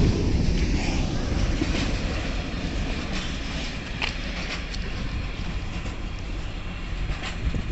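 Freight train passing: a low rumble of the wagons that fades steadily as the train moves away, with a few sharp clicks of wheels over rail joints.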